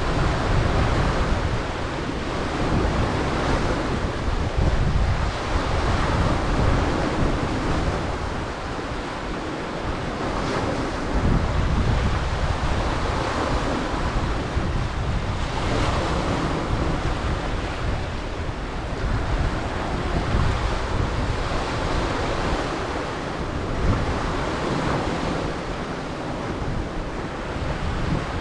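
Sea waves breaking on the shore in repeated surges, with heavy wind buffeting the microphone.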